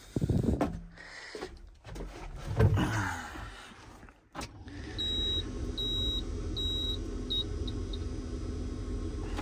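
A couple of loud thumps and a sharp click at the Caterpillar 914 wheel loader, then, about four and a half seconds in, a steady low hum starts with a series of high beeps that grow shorter and quicker: the machine's warning beeper sounding as it is switched on to be started.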